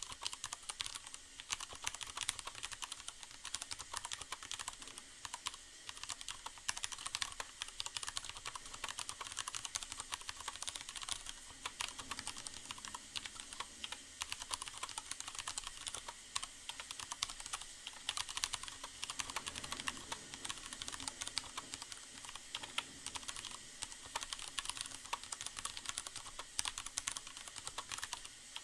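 Steady, fast typing on a Leopold FC750R mechanical keyboard with Cherry MX Brown switches: a dense, irregular run of keystroke clicks, muted by the foam pad inside the board.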